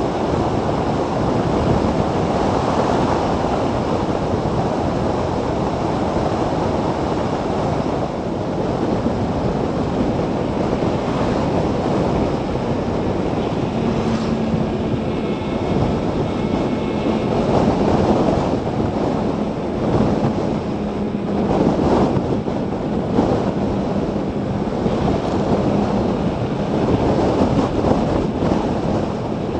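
Wind buffeting the microphone of a camera mounted on a Zero DSR electric motorcycle while it is ridden at speed, with a steady low hum joining about halfway through.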